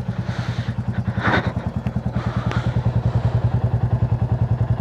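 Motorcycle engine idling with an even, rapid pulse of about ten beats a second. A short rustle about a second in and a single click near the middle.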